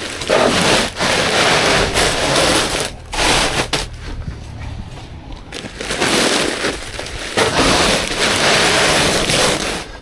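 Heavy bags of building aggregate and cement being hauled and slid into a car, the plastic sacks scraping and crunching in several long stretches with brief pauses between them.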